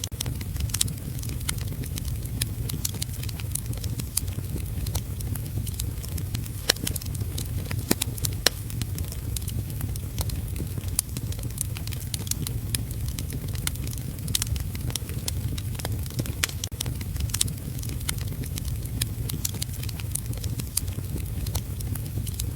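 Wood fire crackling in a fireplace, with frequent sharp pops scattered irregularly, over a steady low rumble of heavy rain.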